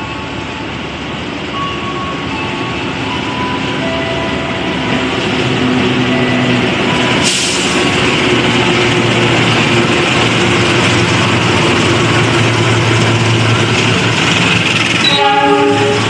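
Train running at the station, a steady rumble of wheels on rail that grows louder. About seven seconds in there is a sudden break, and a heavier low rumble follows. A brief tone sounds near the end.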